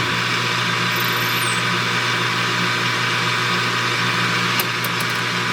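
Metal lathe running steadily, its motor and spindle giving an even hum with a hiss above it, and a few faint ticks near the end.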